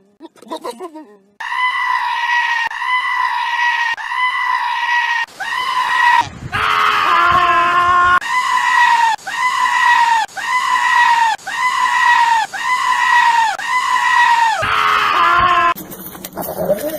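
Goat screaming over and over in a long run of short, high, even cries, about one and a half a second, broken twice by a longer, lower-voiced call.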